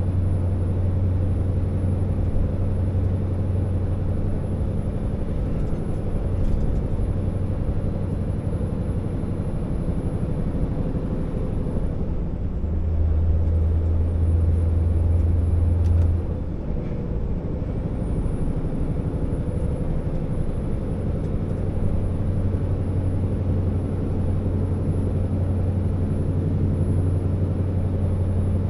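Scania R650's V8 diesel engine pulling the loaded timber truck with a steady low drone. About halfway through the note drops lower and gets louder for a few seconds, then eases back after a short click.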